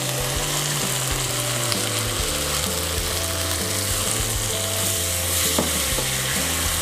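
Shrimp sizzling steadily in sauce in a nonstick wok, stirred and turned with a slotted spatula. Soft background music with a changing bass line plays beneath.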